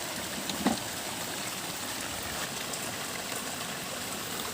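Steady rain falling with water running, an even hiss, with one brief knock under a second in.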